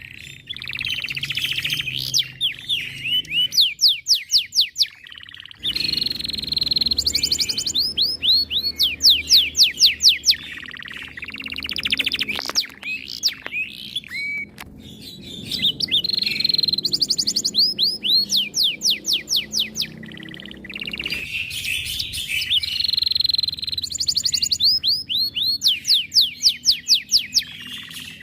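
Domestic canary singing a long song of rapid rolling trills and fast repeated sweeps, in phrases broken by a few short pauses.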